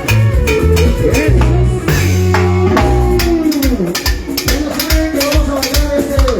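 Latin band music with a steady drum-kit beat, electric bass and a gliding melodic lead line.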